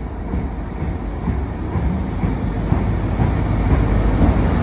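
Train running on rails, a steady rumbling noise that grows gradually louder.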